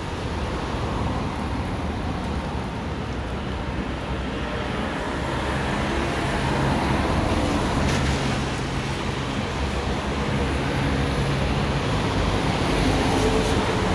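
Steady city traffic noise, with a vehicle's low engine hum getting louder about six seconds in.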